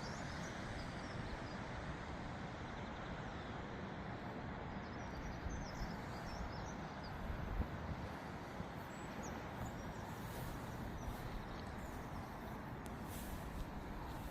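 Open-air ambience: a steady low rumble and hiss, with small birds chirping faintly a few times.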